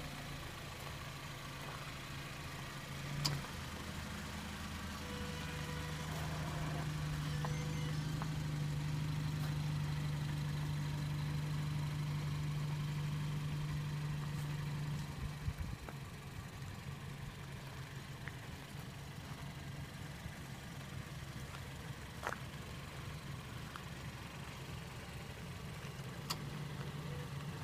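Car engine idling steadily just after a remote start by the security system's engine starter. It runs a little louder for the first half, then settles quieter about halfway through, with a few faint clicks.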